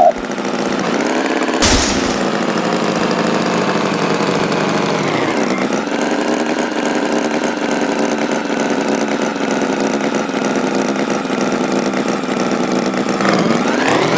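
Tractor engine running steadily; its pitch sags about five seconds in and climbs again near the end. A single sharp knock sounds a couple of seconds in.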